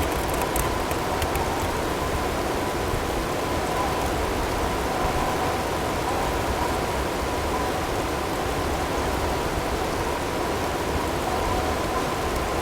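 Blizzard ambience: a steady rush of wind-driven snow and hail. A faint, steady tone is blended in underneath.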